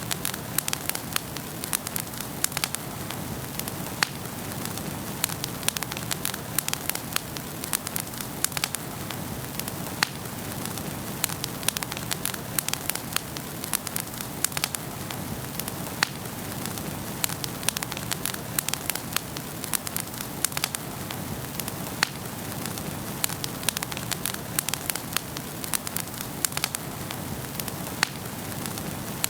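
Wood fire crackling in a fireplace: many irregular sharp pops and snaps over a steady low hiss of burning, with a louder pop about every six seconds.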